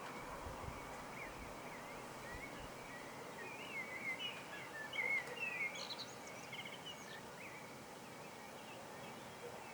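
Songbird singing: a run of quick, twittering chirps, busiest in the middle, over steady faint outdoor background noise.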